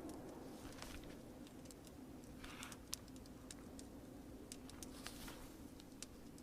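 Crackling fire with scattered sharp pops over a steady, quiet rain hiss, and a brief rustle of paper about two and a half seconds in.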